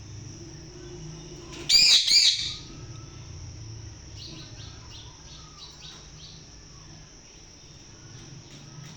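Australian parrot calling: a loud burst of quick chirps about two seconds in, then a run of softer chirps a couple of seconds later. Crickets chirr steadily underneath.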